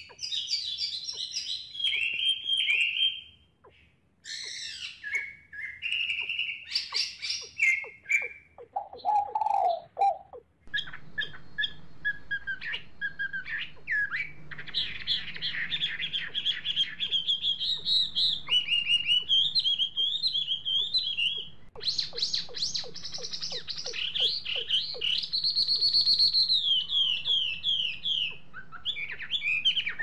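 Birds chirping and trilling in quick, varied high phrases, with a short lower call about nine seconds in.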